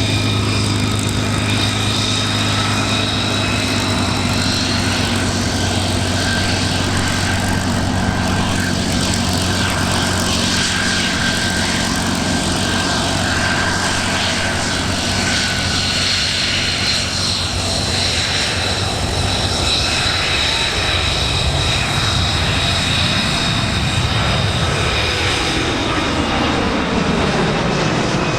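Airplane engine running loudly and steadily, its pitch falling over the last few seconds as the aircraft passes.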